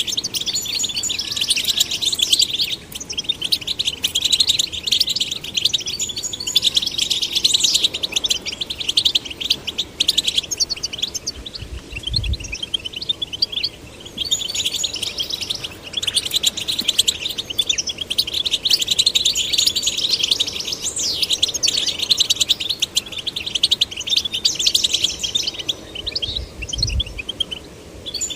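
European goldfinch song: fast, high-pitched twittering of trills and chirps, almost continuous, with short breaks every few seconds.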